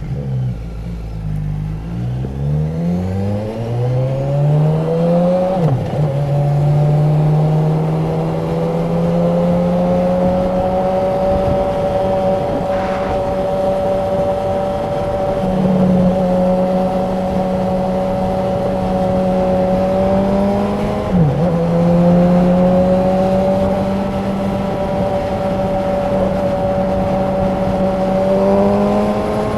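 Honda CB1000R's inline-four engine and exhaust under way: the engine pulls up through the revs over the first few seconds, then runs at a steady speed. Its pitch dips briefly at a gear change about five seconds in and again about two-thirds of the way through, and climbs near the end.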